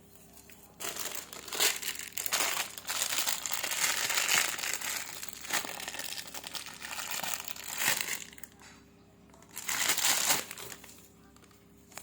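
Packaging crinkling as it is handled and unwrapped: a long spell of crackly rustling, a short pause, then a second shorter burst near the end.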